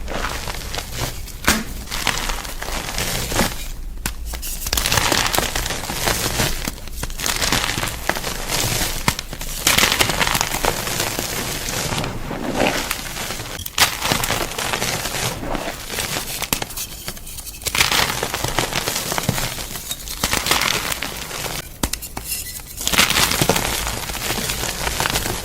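Gym chalk crunching and crackling in irregular spells of a second or two, with short pauses between them.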